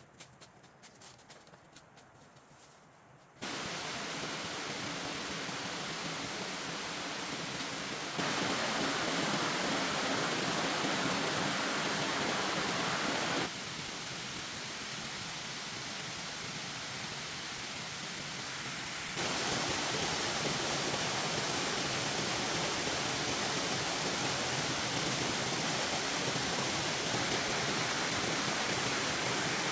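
Steady rushing water noise, like heavy rain or running water, that starts abruptly about three seconds in after a quiet stretch with faint ticks. It jumps louder or softer at hard cuts a few times.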